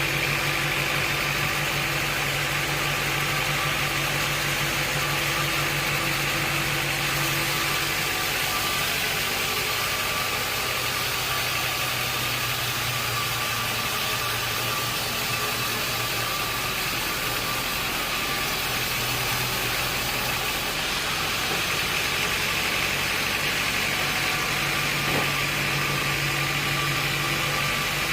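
Sawmill machinery running steadily, a constant mechanical drone. A low hum within it fades about seven seconds in and comes back near the end.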